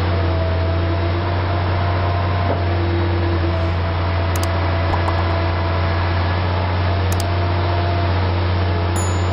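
Liebherr R 960 high-reach demolition excavator running steadily: a constant low diesel drone under an even rushing noise, with faint whining tones.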